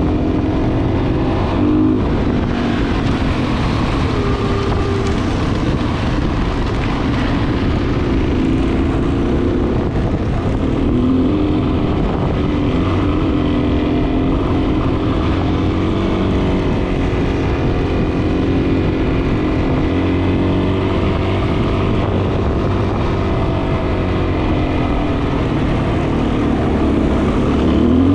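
Dual-sport motorcycle engine running while under way, its pitch rising and falling with the throttle over a steady rushing noise.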